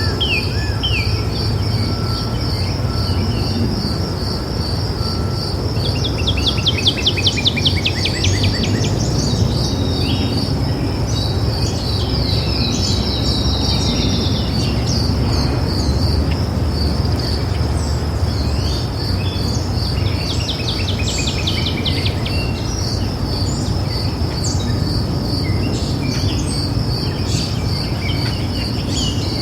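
Wild birds singing in bursts of rapid trilled phrases, about six seconds in and again around twenty seconds, over a continuous evenly pulsed high insect chirping and a steady low background rumble.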